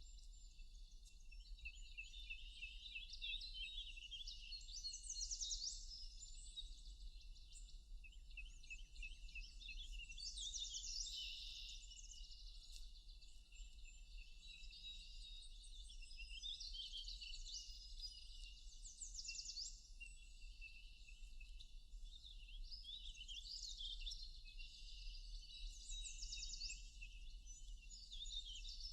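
Several songbirds singing and chirping together in a forest chorus: rapid trills and repeated high notes, with louder bursts of song every several seconds, over a steady low hum.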